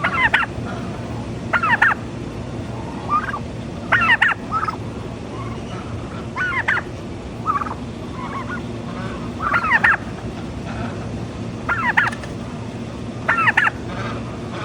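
Turkeys gobbling: about seven loud, rapid rattling gobbles a couple of seconds apart, with softer, shorter calls between them, over a steady low hum.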